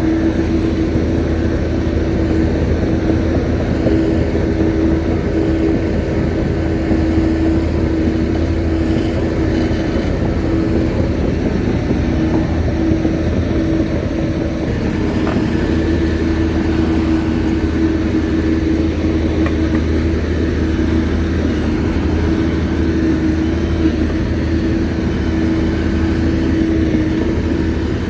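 Shantui bulldozer's diesel engine running steadily at working speed, a constant engine drone that holds its pitch.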